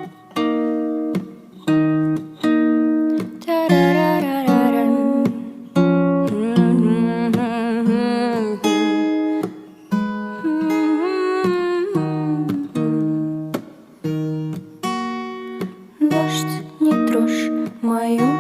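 Song intro on acoustic guitar, chords struck about once a second, with a wordless, wavering melody line above them in the middle stretch.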